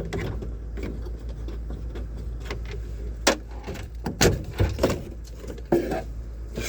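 Scattered clicks and knocks of hand work on a car's interior trim: screws and trim pieces being handled and pried loose from the roof lining.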